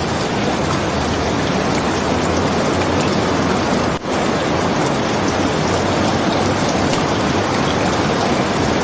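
Steady, dense rainfall as a continuous even hiss, with a brief dip in level about four seconds in.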